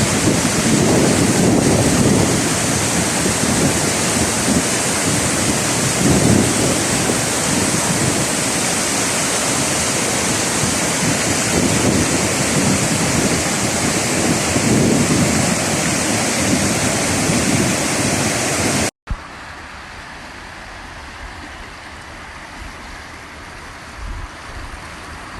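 Loud, steady rush of flowing water, as from a flooding wadi or waterfall, with wind buffeting the microphone in slow swells. About three quarters of the way through it cuts off abruptly, and a quieter, steady rushing follows.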